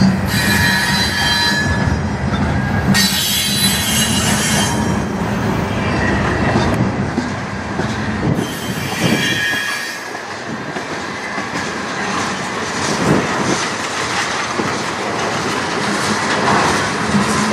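Cars of a CN manifest freight train (gondolas, a tank car and centerbeam flatcars) rolling past: a steady rumble of steel wheels on rail with clicking over the joints. High-pitched wheel squeal comes in three spells: near the start, around three to five seconds in, and again about eight seconds in.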